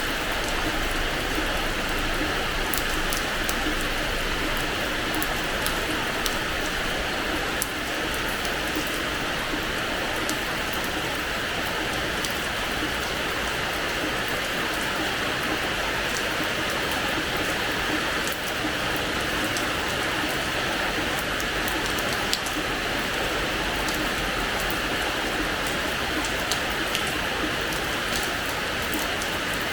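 Steady rain falling on a hard terrace floor, a constant hiss of rain with many small, sharp drop ticks scattered through it.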